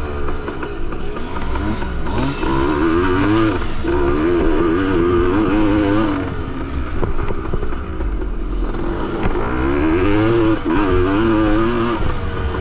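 1973 Yamaha MX250's two-stroke single-cylinder engine under racing load, its pitch climbing and dropping again and again as the throttle is worked, easing off for a couple of seconds past the middle before pulling hard again.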